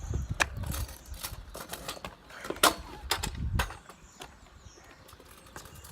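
Stunt scooter knocking and clattering against the pavement in attempted tail whips: a few sharp knocks, the loudest nearly three seconds in, with low rumbling in between.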